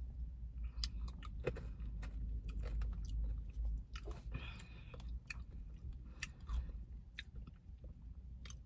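Close-miked chewing of ice cream with caramel toffee pieces and brownie, a run of wet mouth clicks and smacks. A low rumble sits underneath.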